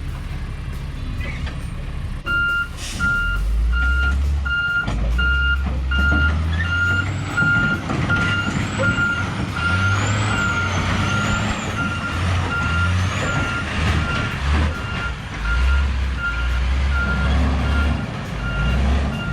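Diesel engine of a heavy truck working at changing load while its reversing alarm beeps steadily, as the truck is backed out of soft mud. A short hiss comes near the start of the beeping, and a high whine rises and falls several times in the middle.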